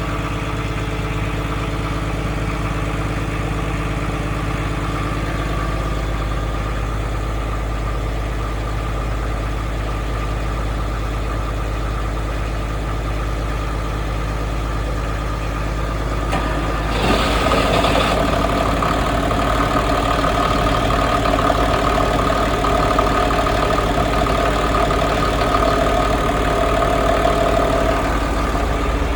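Houseboat's engine idling steadily. A little past halfway through the running gets louder with a stronger hum, and stays at that level.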